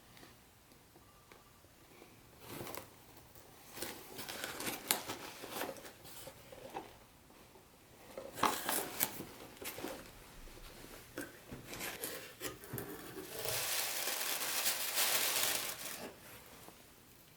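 Packaging being handled: several bursts of crinkling and rustling, then a steadier rustle lasting about two seconds near the end.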